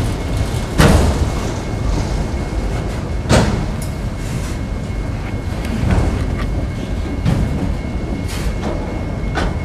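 Enclosed autorack freight cars rolling past at close range: a steady rumble of steel wheels on rail, with sharp clanks about a second in and again at about three and a half seconds, and lighter knocks later on.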